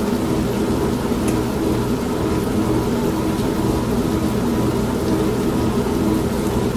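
Old non-automatic washing machine running: a steady motor hum with a pulsing churn, mixed with steady rain.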